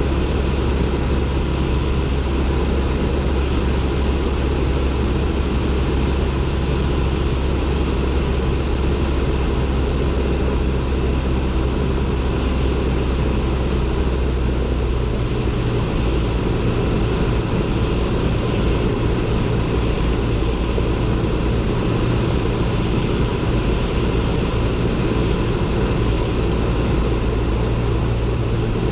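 Cessna 172N's four-cylinder Lycoming engine and propeller droning steadily in flight, heard inside the cabin. The low drone shifts in pitch about halfway through.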